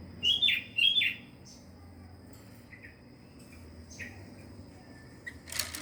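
Caged birds chirping: two loud, short calls falling in pitch in the first second, then a few fainter chirps. A brief rustle near the end.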